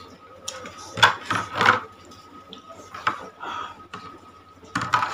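Close-miked eating of instant noodles: a run of short, sudden slurping and chewing noises, the loudest three coming close together about a second in, with more near the end.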